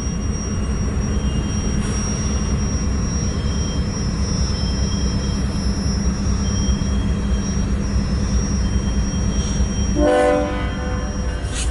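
Loaded CSX coal train's diesel locomotives running with a steady low rumble, with a short pitched tone about ten seconds in.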